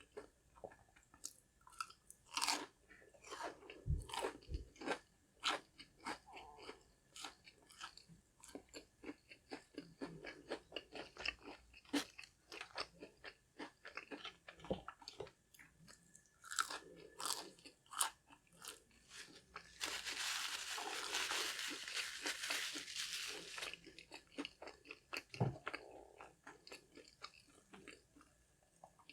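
Close-miked eating of crispy fried food: repeated crunching bites and chewing. About two-thirds of the way in comes a steady crackly noise lasting about four seconds, louder than the bites.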